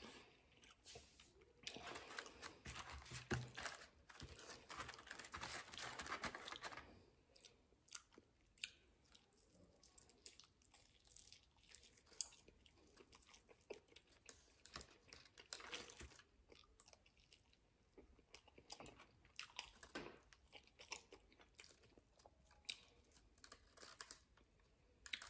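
Close-up chewing of Wingstop chicken wings: a few seconds of denser crunchy chewing near the start, then slower, quieter chewing with scattered soft clicks.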